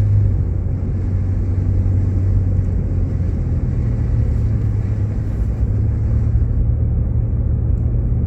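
Jeep Grand Cherokee driving on a snow-covered road, heard from inside the cabin: a steady low rumble of engine and road noise.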